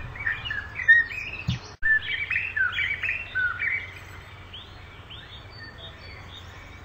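Birds chirping in quick, short calls for the first few seconds, with a brief break about two seconds in, then a few fainter calls before only a low steady hiss remains.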